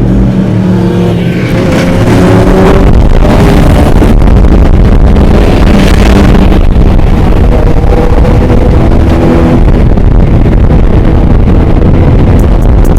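Loud engines of dirt bikes and ATVs running and revving close by.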